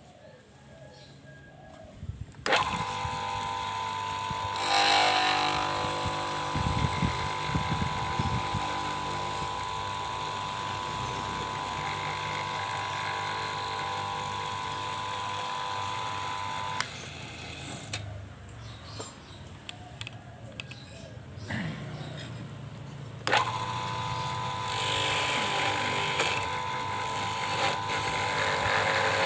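Small electric motor of a homemade PVC-pipe lathe switched on about two seconds in, running with a steady whine, switched off after about fifteen seconds and started again near the end.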